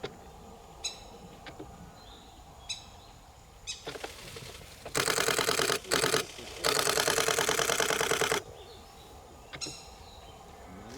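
Nikon D500 DSLR shutter firing in rapid continuous bursts of evenly spaced clicks: a short burst about four seconds in, then two longer runs, the last nearly two seconds long, close to the microphone.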